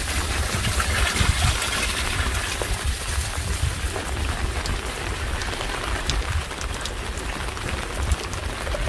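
Steady rainfall with scattered individual drop ticks, over a constant low rumble.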